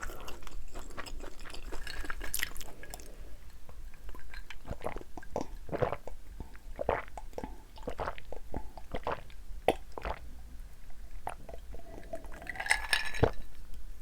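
Close-miked mukbang eating sounds: a person chewing thin, crispy-battered spicy fried chicken wings, with many small crunches and wet, squishy mouth sounds at an uneven pace.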